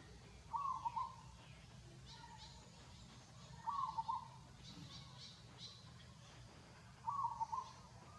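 An animal call repeated three times, about every three and a half seconds, each a short broken call of about half a second, with faint high chirps between.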